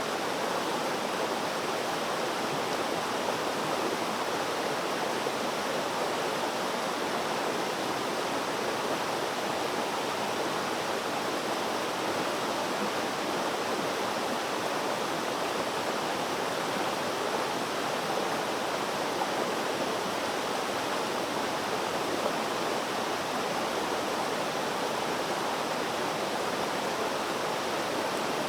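Flowing water rushing in a steady, unbroken hiss, like a stream or small cascade, with no change in level.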